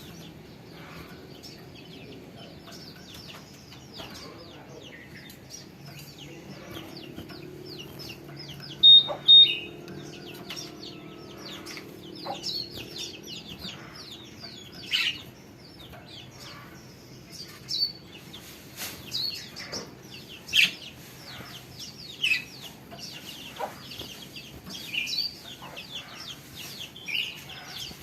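Small songbirds chirping: many short, high, downward-sweeping chirps at irregular intervals, with two louder calls about nine seconds in.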